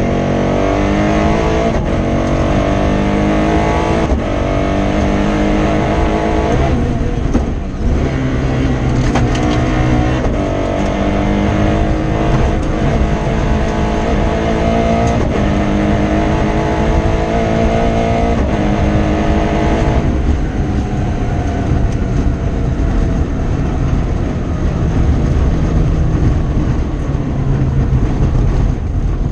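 Toyota Starlet KP61 rally car's 4A-GE four-cylinder engine heard from inside the cabin, pulling hard and rising in pitch, with a short break about seven seconds in and a second long climb to about twenty seconds in, then running at a steadier pitch. The engine is misfiring from a broken injector wire.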